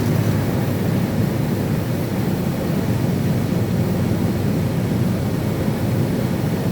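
Steady road and engine noise heard inside a moving vehicle's cabin, low and even.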